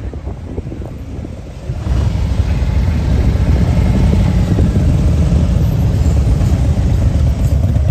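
A car's engine running close by, a steady low rumble that gets louder about two seconds in.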